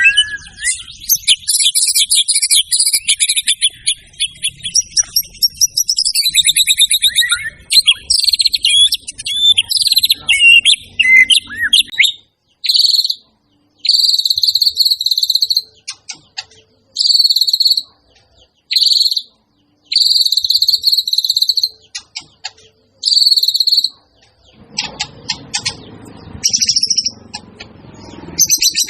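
White-rumped shama (murai batu) singing loudly: about twelve seconds of fast, varied high warbling, then a series of short repeated high phrases with brief pauses between them, and rougher notes over a low hiss near the end.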